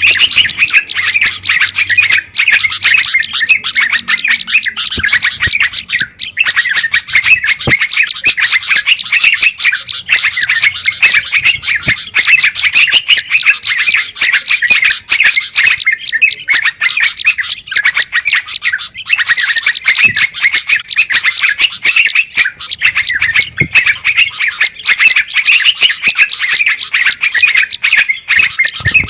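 Dense, unbroken chattering and chirping of many small songbirds calling at once: a noisy bird-lure recording of agitated birds, made to draw wild birds in.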